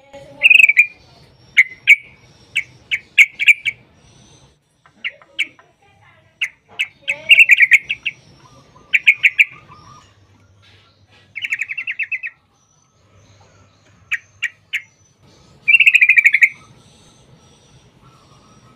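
Yellow-vented bulbul calling: bursts of short bubbly chirps alternating with fast, rattling trills, a dozen or so separate phrases with brief pauses between them.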